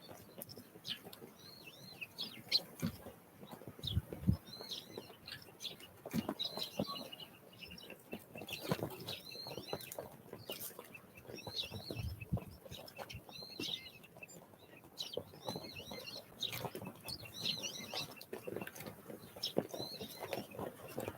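Small wild birds at a winter feeder chirping over and over in short, high calls, with scattered knocks and brief wing flutters as they land, peck and take off.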